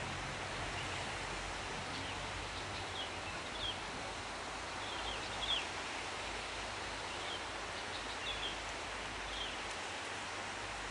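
Steady outdoor background hiss with scattered short, high bird chirps, a few at a time, throughout.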